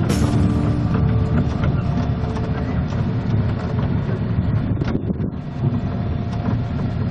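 A vehicle running steadily, a dense low rumble with rattling, as heard riding along in it.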